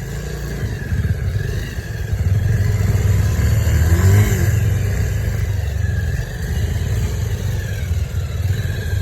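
A motor vehicle engine running with a steady low rumble, growing louder about two seconds in.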